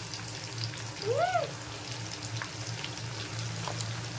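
Marinated chicken 65 pieces deep-frying in hot oil, with a steady sizzle and fine crackling. A short rising-and-falling voice sound comes about a second in.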